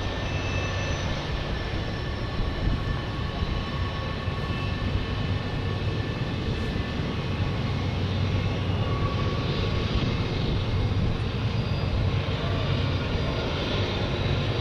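A steady engine drone with a low hum under an even rushing noise, unchanging throughout.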